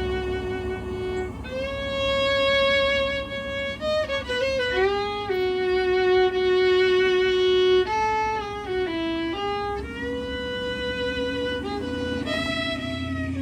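Background music: a fiddle playing a slow melody of long held notes with slides between them.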